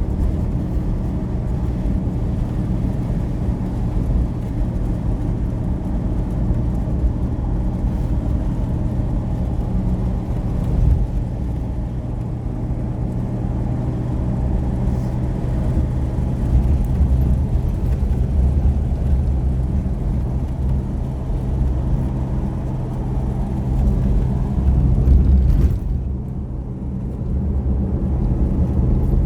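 Motor vehicle running steadily, a continuous low engine drone with road noise.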